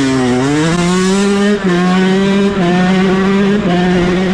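Dirt bike engine revving hard, its pitch dipping at first and climbing, then dropping sharply in steps about a second apart.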